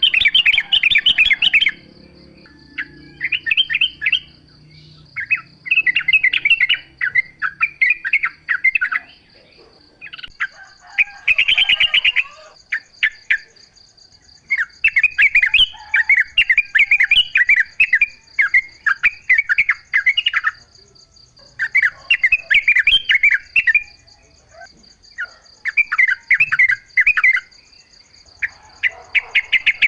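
Yellow-vented bulbul (trucukan) singing in bursts of quick, bubbly chattering phrases, each a second or two long, repeated every couple of seconds. A steady thin high whine runs underneath, and a second, higher one joins partway through.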